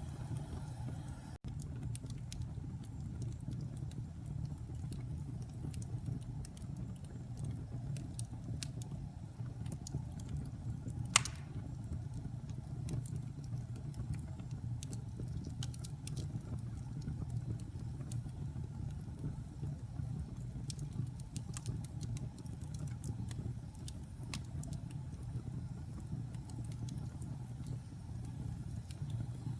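Wood fire burning in a fireplace: a steady low roar of flames with scattered small crackles and snaps, and one loud pop about eleven seconds in.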